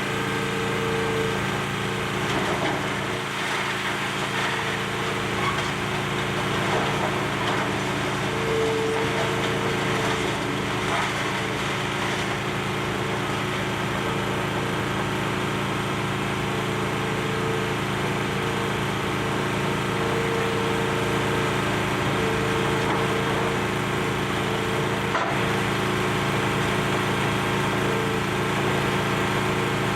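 Demolition excavator's diesel engine running steadily, with a hydraulic whine that comes and goes, while debris crunches and splinters as the building is torn apart, mostly in the first half.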